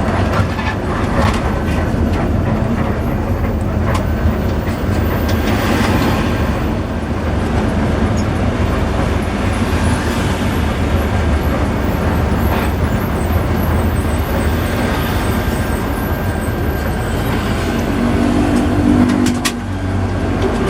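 An intercity bus running along the road: a steady low engine and road rumble with scattered knocks and rattles, and a brief pitched tone near the end.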